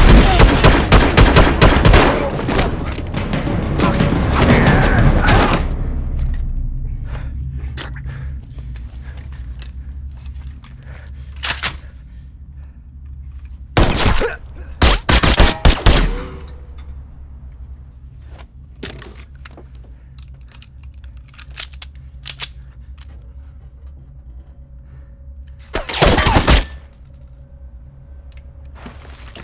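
Rapid gunfire in a film action scene: a dense burst of many shots in the first couple of seconds, then more bursts around halfway and again near the end. A low music score runs underneath.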